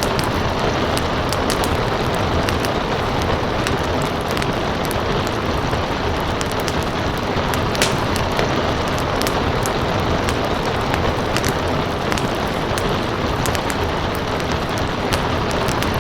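Steady rain hiss layered with a wood fire crackling, scattered sharp pops throughout and one louder crack about halfway through.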